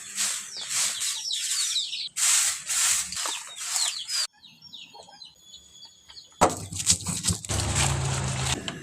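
Small birds chirping in quick, repeated notes, mixed with loud bursts of rustling, scraping noise. About two-thirds of the way in, the sound cuts abruptly to a louder stretch of knocks and hiss.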